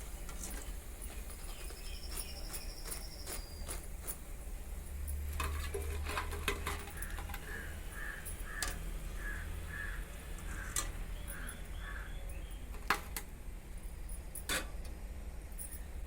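Metal spoon clinking and tapping against the frying pan as fried besan bondas are lifted out of the oil, in scattered sharp clicks over a steady low hum. A bird calls in a run of short notes midway, and a brief high insect-like trill sounds early on.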